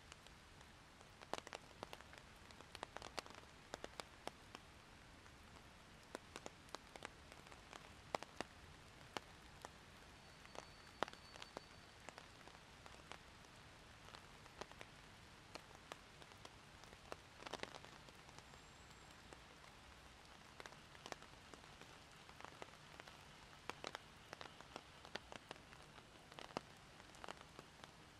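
Rain falling: a soft, even hiss dotted with many sharp, irregular drop ticks.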